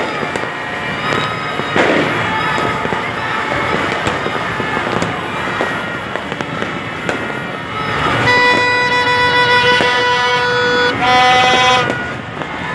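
Aerial fireworks crackling and popping continuously. About eight seconds in, a horn sounds one long steady note over them, followed near the end by a shorter, higher note.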